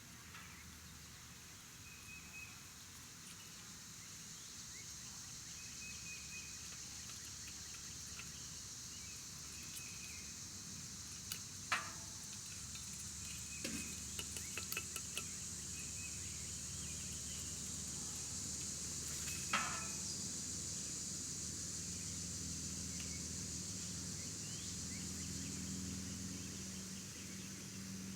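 Outdoor backyard ambience: a steady high insect drone, with a few short bird chirps and several sharp clicks and knocks about halfway through.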